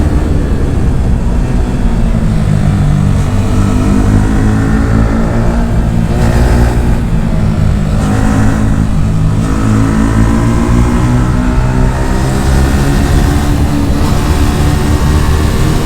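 Yamaha R15 V4's 155 cc single-cylinder engine through an Akrapovic R1M aftermarket exhaust, revving on the move, its pitch rising and falling several times with short breaks as the gears change.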